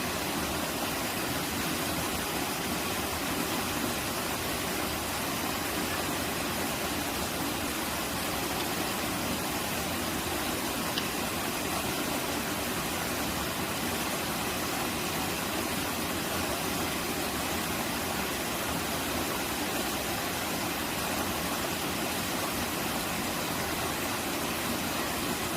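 Mountain stream rushing steadily over rocks, a constant wash of running water.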